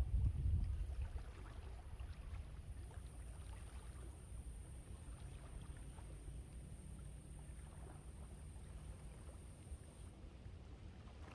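Wind buffeting the microphone at the seashore, a strong gust in the first second and then a steady low rumble, over faint crackling wash of the waves.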